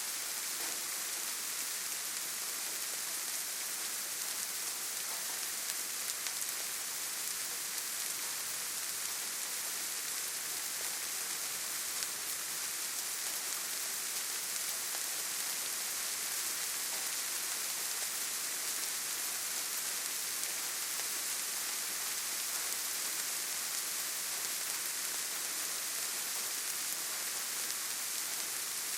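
Steady rain falling on leaves and forest ground: an even, high hiss with faint scattered drop ticks.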